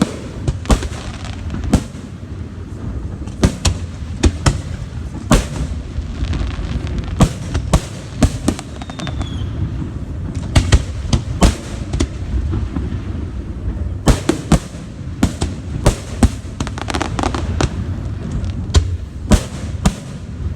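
Aerial fireworks exploding in a continuous barrage: many sharp bangs, often several in quick succession, over a steady low rumble. A short falling whistle is heard about nine seconds in.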